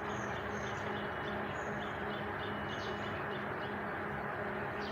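Small birds chirping, short high notes repeating over a steady low hum and outdoor background noise.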